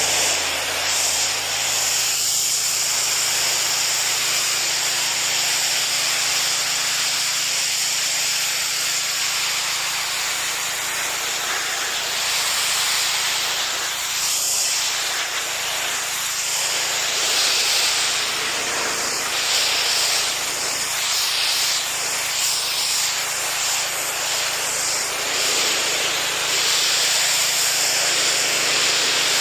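Pressure washer spraying: a high-pressure water jet hissing against a hard surface, the spray changing as the wand moves, over the steady hum of the washer's engine.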